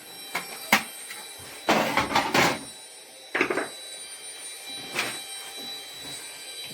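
Scattered knocks and a rattling clatter of tools and panels while an LG washing machine is taken apart to get at its drain pump, over a faint steady high tone.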